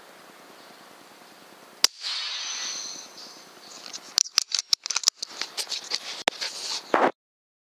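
A single sharp crack about two seconds in, the sort made by a moderated .177 FX Dreamline Tactical Compact PCP air rifle firing, followed by about a second of hissing noise and then a quick irregular run of clicks and knocks. The sound cuts off suddenly near the end.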